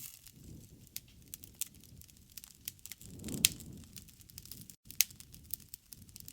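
Campfire burning: wood crackling with irregular sharp pops and snaps over a low rumble of the flames. One snap louder than the rest comes about halfway through.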